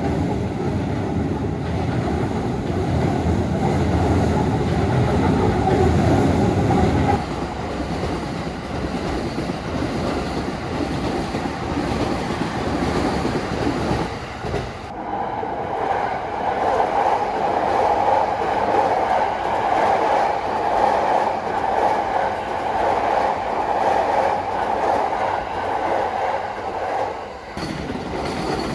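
Keikyu electric train running past at a level crossing: a heavy low rumble for about the first seven seconds, then a lighter running sound that grows into a steady higher-pitched sound from about halfway and drops away shortly before the end.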